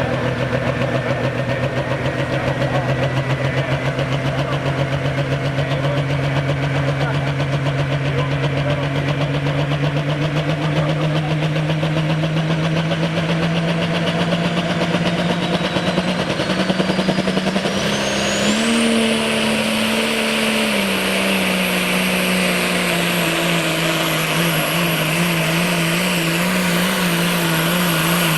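Super stock diesel pulling tractor running under full load down the track, its engine note climbing slowly, with a turbo whine rising to a high steady scream about two-thirds of the way through. Near that point the engine pitch jumps, then eases down a little for the rest of the run.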